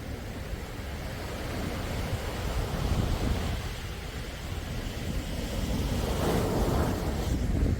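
Sea waves washing in and out on a calm sea, the surge swelling about three seconds in and again more strongly near the end.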